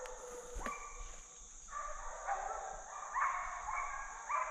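A pack of deer hounds baying on a running deer's trail: several overlapping voices, a new bay every half second to a second.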